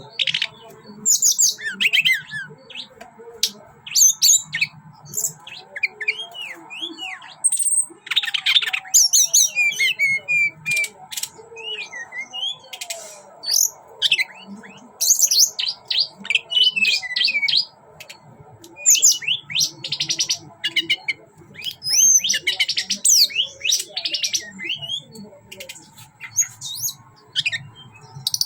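Teledekan gunung songbird singing intensely in rapid high chirps, whistles and fast trills, phrase after phrase with hardly a pause: the frantic nonstop singing that bird-keepers call 'konslet'.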